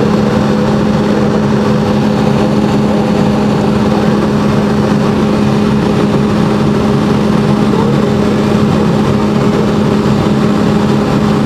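Boeing 757 cabin noise: the Rolls-Royce engines running steadily, heard as a constant roar of noise with a steady low hum and its overtone, not rising or falling.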